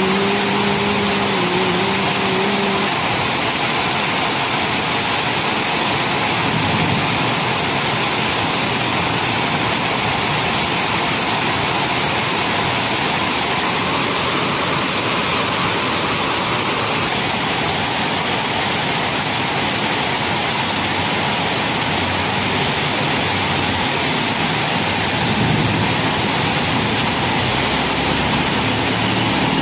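Heavy rain pouring steadily onto a flooded street, a dense even hiss. A held, slightly wavering tone sounds for the first few seconds. Near the end the low rumble of a vehicle engine builds as it approaches.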